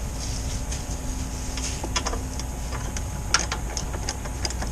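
Scattered light clicks and taps, with a few sharper ones about two and three and a half seconds in, from hand work on the ATV during teardown, over a steady low hum.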